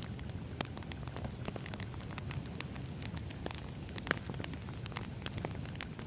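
Wood fire burning, with many small crackles and pops over a low steady rumble; one sharper pop about four seconds in.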